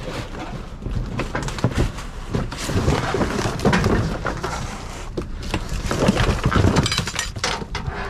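Trash being rummaged through in a dumpster: an irregular run of knocks, clatter and rustling as bags and junk are shifted about.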